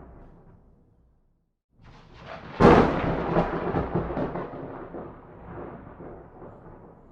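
Thunder: a fading rumble gives way to about a second of dead silence, then a sharp thunderclap cracks about two and a half seconds in and rolls on as a long rumble that slowly dies away.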